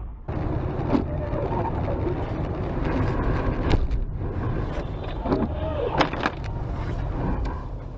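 A car's engine and road noise, a steady low rumble picked up by a dash cam, with a few sharp knocks; the loudest come about halfway through and about three quarters of the way through.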